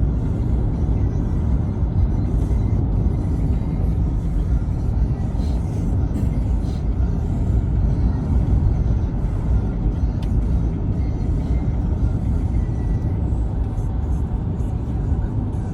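Steady low rumble of a moving car's road and engine noise, with music playing along.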